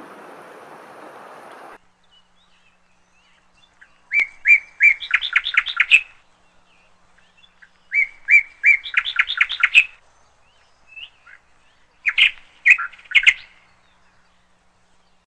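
A songbird singing: twice the same phrase of a few separate notes followed by a quick run of notes, then a shorter phrase near the end. Before it, a steady rushing noise cuts off suddenly about two seconds in.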